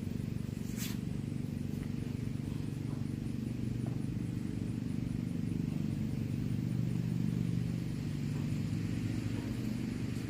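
A steady low hum of an engine running, with a few faint short ticks.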